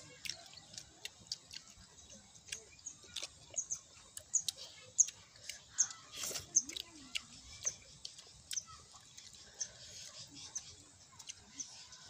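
Several children chewing and smacking their lips as they eat by hand, a stream of small wet mouth clicks, with short high chirps scattered among them.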